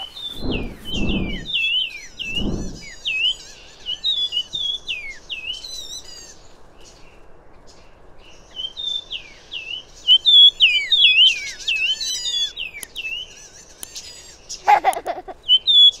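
Yunnan fulvetta calling: rapid runs of short, high chirps that each sweep downward, in bouts with a pause of about two seconds in the middle.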